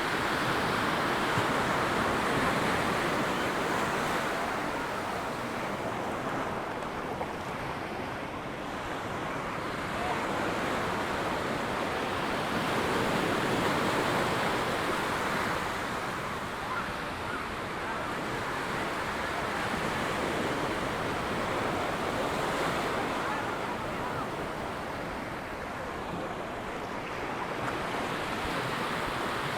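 Ocean waves breaking and washing up on a sandy beach, a steady rush that swells and eases every several seconds, with some wind on the microphone.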